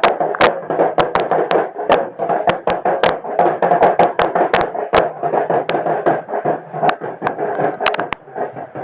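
Festival crowd noise with irregular sharp percussion hits.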